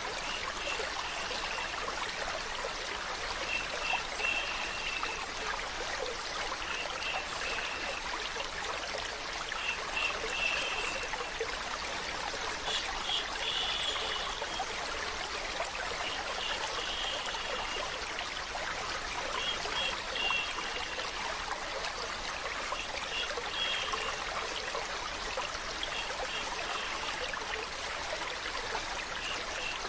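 Steady running water, like a small stream trickling and flowing. Short clusters of high-pitched notes recur every few seconds over it.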